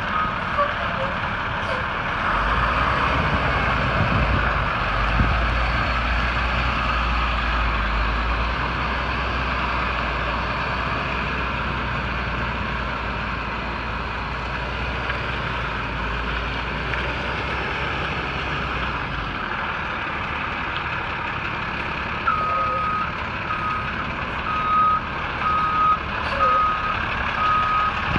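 International DuraStar 4300 truck's diesel engine running, with a deep low rumble through most of the first two thirds. Its backup alarm beeps at the very start and again through the last several seconds, about once a second, as the truck reverses.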